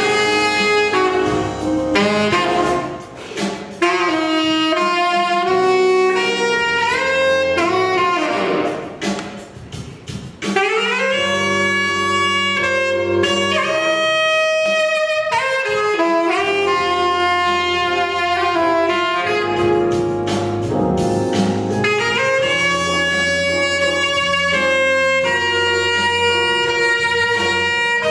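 Instrumental music: a saxophone plays a melody of held notes over accompaniment, dropping away briefly about 3 seconds in and again around 9 seconds in.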